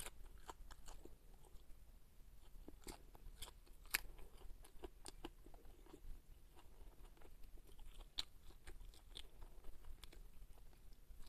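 A person chewing and crunching green onion stalks and fried carp, with scattered crisp bites and clicks, the sharpest about four seconds in.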